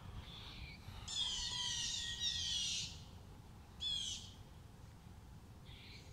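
Songbird singing in the dawn chorus: a rapid run of high, downward-sweeping notes lasting about two seconds, then a shorter burst of the same notes about a second later, over a steady low rumble.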